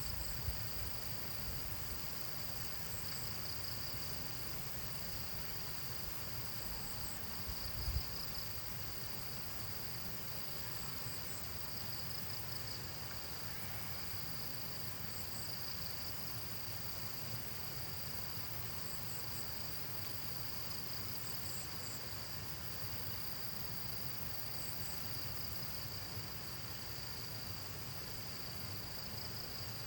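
Chorus of insects chirping: a steady high trill with groups of faster pulsing chirps that come and go every few seconds, over a low rumble. A single thump about eight seconds in.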